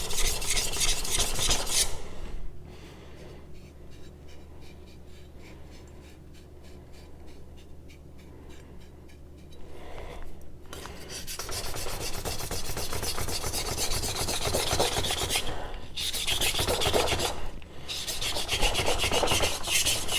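An AEB-L stainless steel knife blade being stroked back and forth freehand on a wet whetstone, steel scraping on stone. The scraping drops to faint light strokes about two seconds in and comes back hard about ten seconds in, with two brief pauses near the end.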